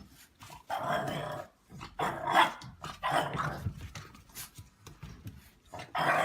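A dog growling and barking in several short bursts, the loudest near the end.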